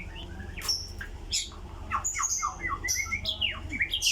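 White-rumped shama (murai batu) singing: a fast run of short, sharp downward-sweeping whistled notes with high chirps mixed in, getting denser from about a second in.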